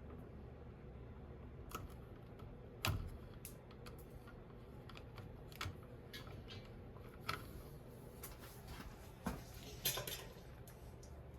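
Scattered light clicks and taps of tools, wire and a light switch being handled as the conductors are looped around the switch's screw terminals, the sharpest about 3 s and 10 s in, over a low steady hum.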